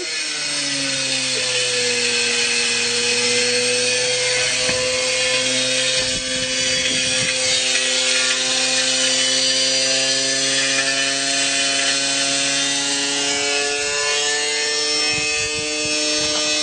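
Whirlpool washing machine spinning a heavy load it was never meant to carry. The motor whine holds steady and climbs slowly in pitch, over continuous rattling and grinding from the drum and cabinet.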